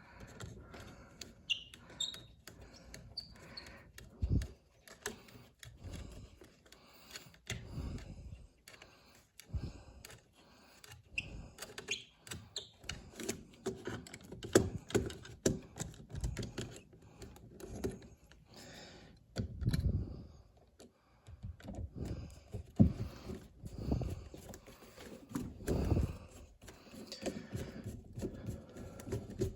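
Irregular clicks, taps and soft knocks of close-up hand work: a thermostat being screwed to a wall with a hand screwdriver.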